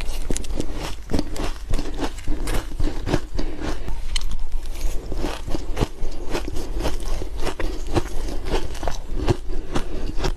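Ice being bitten and chewed close to the microphone: a dense, irregular run of crisp crunches, several a second.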